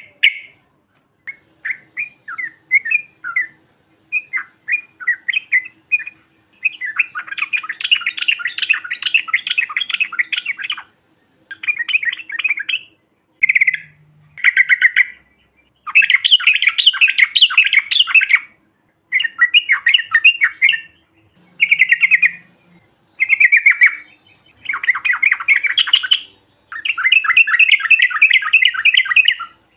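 Yellow-vented bulbul (trucukan) singing in a loud run of chattering phrases of fast, rolling notes, each one to three seconds long with short pauses between. It is the long trilling song played as a lure to set other bulbuls singing.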